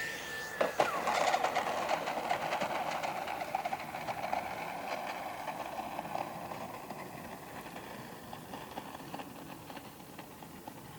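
The RC jet's 90mm electric ducted fan whines steadily, then its pitch drops off sharply about a second in. A rattling, clattering rumble follows and fades away gradually over the following seconds.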